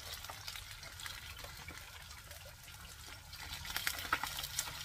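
Fish frying in oil on a banana leaf in a nonstick pan: a faint, steady sizzling hiss. A little under four seconds in it grows louder, with crackles and pops.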